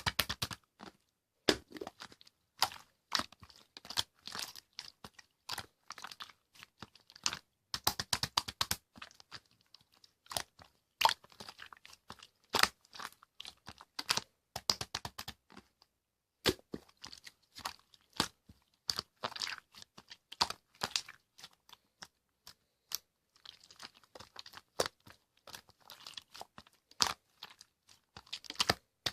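Slime being squished and pressed by hand, giving irregular runs of sharp popping and crackling clicks.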